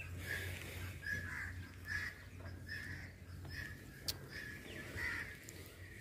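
Birds calling again and again, short calls roughly every half second to a second, faint over a low steady hum.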